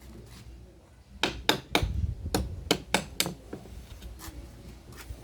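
Hammer blows during homemade speaker-box building: about seven sharp knocks at uneven spacing, bunched in the middle, with a few fainter taps after.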